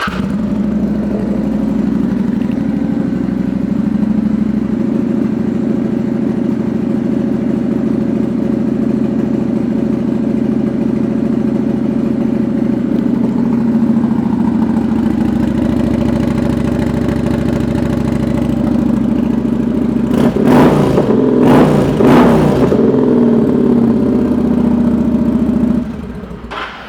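2009 Kawasaki Vulcan 900 Custom's V-twin, fitted with Cobra downswept pipes, starting up and idling steadily. About twenty seconds in it is revved a few times, then it shuts off near the end.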